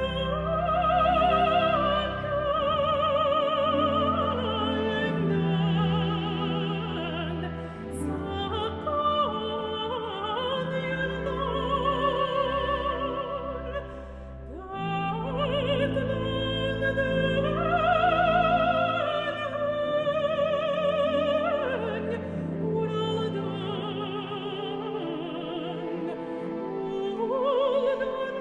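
Operatic mezzo-soprano singing a slow melody in long held notes with wide vibrato over orchestral accompaniment, with a brief pause between phrases about halfway through.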